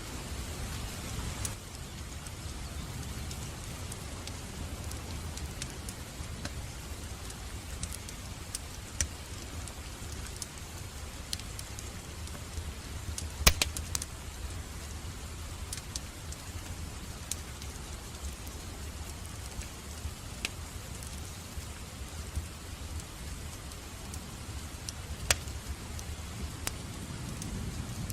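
Steady rain mixed with a crackling wood fire, with sharp scattered pops from the fire, one loudest about halfway through.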